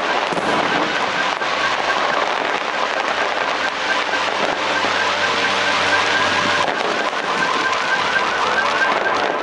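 Fireworks salute going off in a dense, continuous crackle of bangs, with a car alarm warbling through it about five times a second, strongest in the second half.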